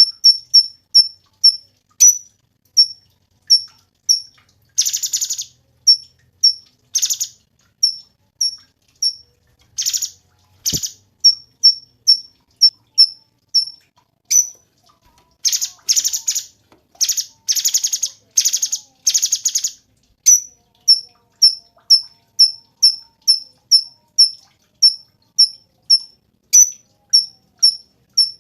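Cucak cungkok singing: a steady run of short, high chirps, about two or three a second, broken several times by longer buzzy, rattling bursts.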